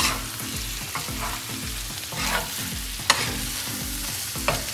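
Chicken sizzling in desi ghee on a flat tawa griddle while a metal spatula stirs and scrapes it, with several sharp scrapes about a second apart. The cooking liquid has just dried off, so the chicken is frying in the fat.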